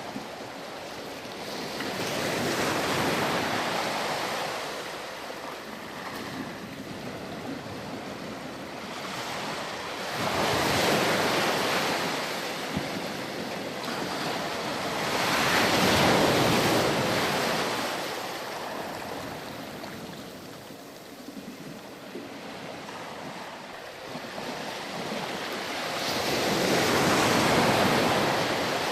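Ocean surf: waves breaking and washing up the beach, swelling and ebbing about four times, with the loudest surges about a third of the way in, just past halfway, and near the end.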